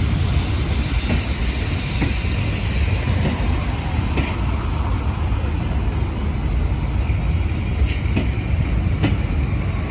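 Railway coaches rolling slowly past over a level crossing, with a steady low rumble and irregular clicks as the wheels cross the rail joints.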